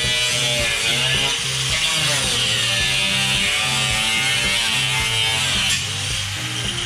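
High-speed cutting tool running and cutting through a fiberglass body panel, a steady high whine whose pitch dips and rises as the cut loads it, over background music. The whine eases off near the end.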